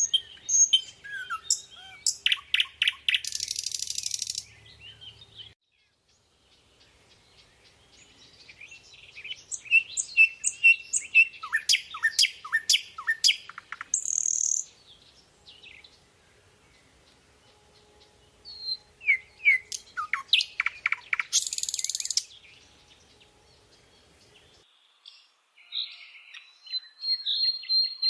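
A bird singing in bouts of rapid chirps, quick downward-sweeping notes and short buzzy trills, with pauses of a few seconds between bouts; four bouts in all, the last starting near the end.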